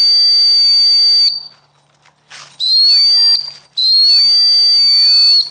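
Three long, steady, high-pitched blasts on a dog whistle, each lasting about one to one and a half seconds: a recall signal calling the dogs back.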